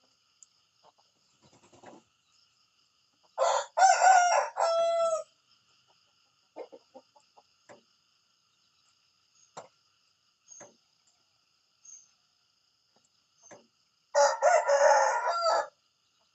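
Rooster crowing twice, about ten seconds apart, each cock-a-doodle-doo a run of several loud notes lasting under two seconds, with a few faint short clucks in between.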